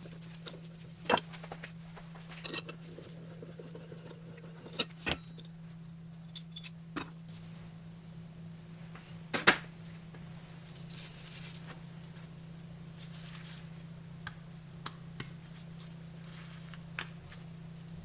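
Metal tools and parts being handled on a workbench: scattered clinks and knocks, the loudest about halfway through, over a steady low hum.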